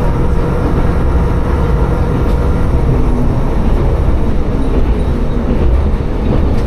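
Tsugaru Railway diesel railcar running along the line, heard from on board: a steady low rumble of engine and wheels on rail.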